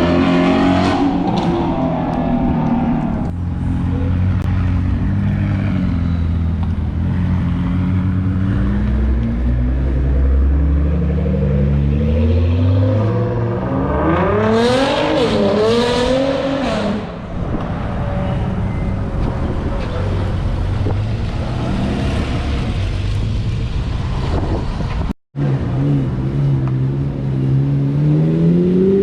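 Performance car engines revving and accelerating, their exhaust notes climbing in pitch several times. A sudden break about three quarters of the way through is followed by another engine pulling away with a rising note.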